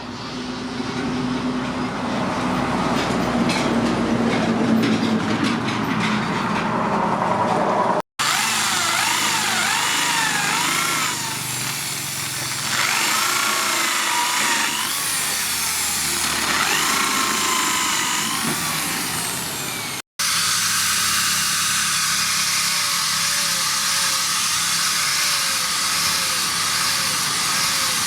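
A power tool working steel, in three clips split by two abrupt dropouts. In the middle clip a whine rises and falls in pitch. The last clip is a steady hiss with a faint tone dipping about once a second.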